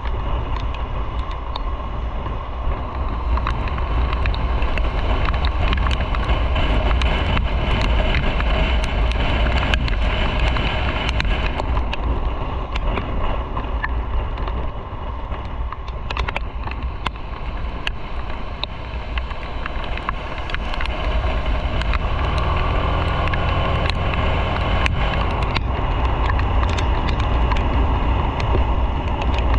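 Motorcycle on the move: its engine running under steady wind rush over the microphone. From about 22 seconds in, the engine's steady note comes through more clearly.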